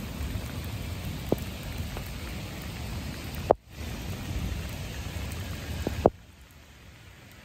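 Heavy rain falling steadily, with a few sharp ticks along the way. The rain becomes much quieter about six seconds in.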